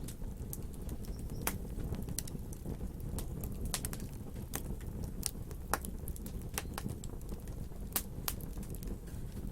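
Wood fire burning, with irregular sharp crackles and pops several times a second over a steady low rumble of the flames.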